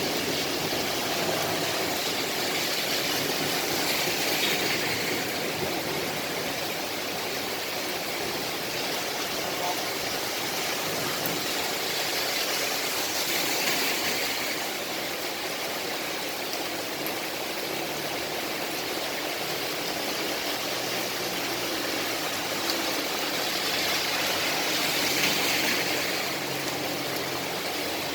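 Steady rain falling, an even hiss throughout, with passing vehicles swelling up over it three times, about four, thirteen and twenty-five seconds in.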